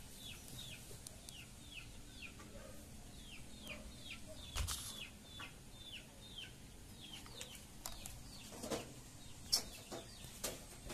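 A bird calling over and over in short, downward-sliding chirps, two or three a second. A few clicks and knocks come through, a low knock about four and a half seconds in and the sharpest click about nine and a half seconds in.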